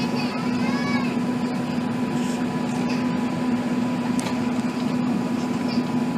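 Steady cabin noise inside an Airbus A380 airliner: a constant drone of engines and airflow with a low hum. In the first second a brief pitched sound rises in tone.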